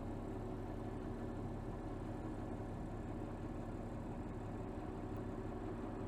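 Turbocharged 3.0-litre inline-six of a 2024 Mercedes GLS 450, heard from under the hood, running steadily at low revs with an even, unchanging note.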